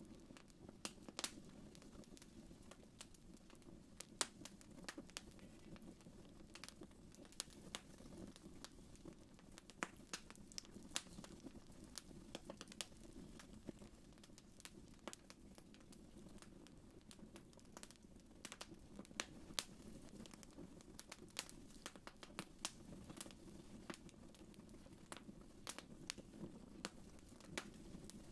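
Wood fire crackling in a fireplace: irregular sharp pops and snaps over a faint, steady low rush.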